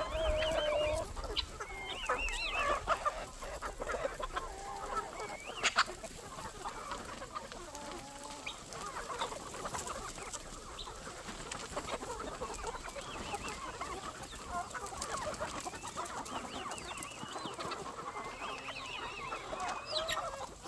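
A flock of chickens clucking and calling without a break, many birds overlapping, with an occasional sharp knock, the clearest about six seconds in.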